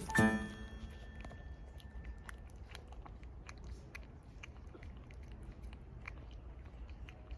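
Cat chewing and crunching food, faint irregular crunches over a steady hiss.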